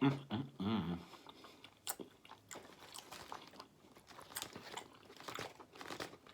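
Close-miked chewing and biting: wet mouth clicks, smacks and small crunches while eating, with a short hummed vocal sound in the first second.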